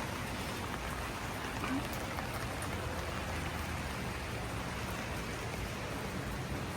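Steady rain falling on a garden, an even hiss of drops on leaves and ground with no breaks.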